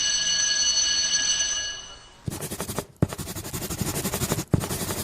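A steady ringing tone that fades out after about two seconds. It is followed by a fast, rattling alarm-like ring in three bursts, with short breaks between them.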